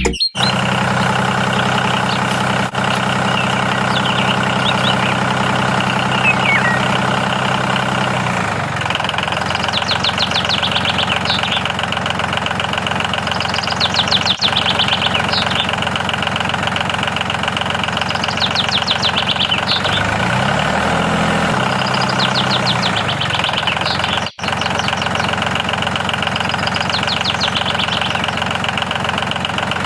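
An engine running steadily at idle, its pitch shifting about eight seconds in and again around twenty seconds in, with short bird chirps recurring above it.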